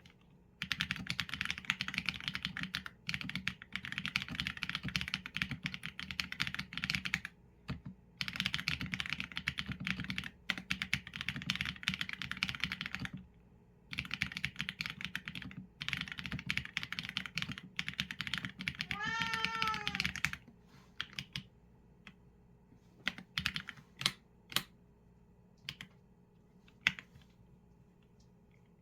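Typing on a Qsenn A75 mechanical keyboard with Leobog Graywood v4 linear switches and PBT keycaps: several runs of rapid keystrokes broken by short pauses, thinning to scattered single keypresses for the last third. A cat meows once, briefly, about two-thirds of the way through.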